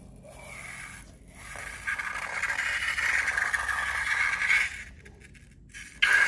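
Scraping and rubbing noise, a hiss of friction that builds about two seconds in, breaks off briefly near the end, then starts again.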